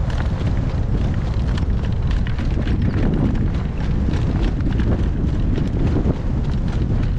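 Strong wind buffeting the microphone with a steady low rumble, over which a horse's hooves strike at irregular intervals.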